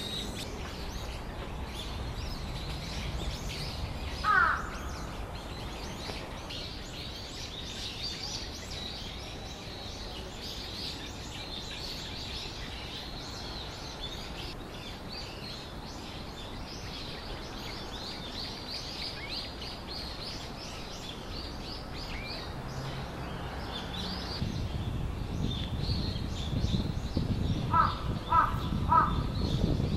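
Wild birds chirping continuously in the trees, with one loud descending call about four seconds in and three short, evenly spaced calls near the end. A low rumble builds over the last few seconds.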